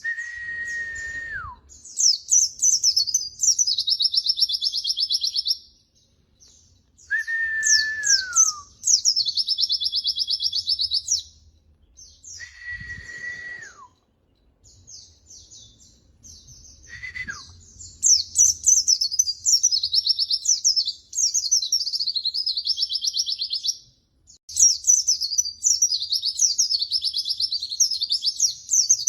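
White-eye (pleci) singing in long bursts of rapid, high twittering and trilling phrases, broken by short pauses. Four times, a lower held whistle sounds, once at the start and three more times spread through the middle, each dropping away in pitch at the end.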